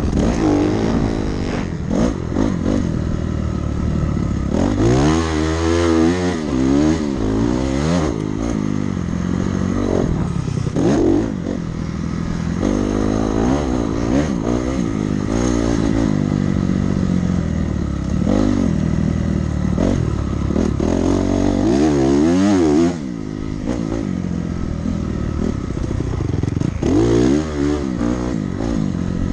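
Dirt bike engine being ridden around a motocross track, its pitch rising and falling over and over as the throttle is opened and shut.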